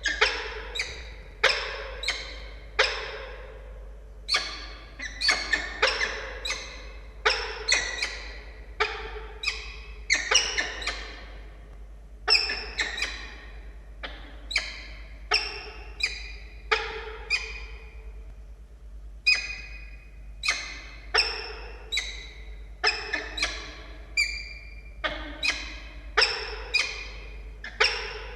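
Peregrine falcons calling over and over: short, harsh calls about one a second, some coming in quick pairs, the typical chatter of a pair at a prey hand-over.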